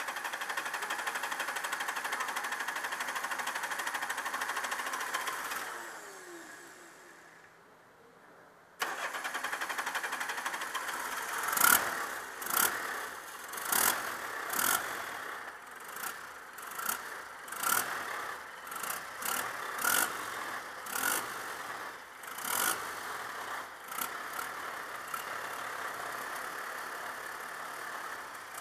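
Cummins 4BT 3.9-litre four-cylinder diesel running, going quieter about six seconds in and coming back abruptly near nine seconds. It is then revved in a series of short, loud blips about once a second, and it settles to a steady idle near the end.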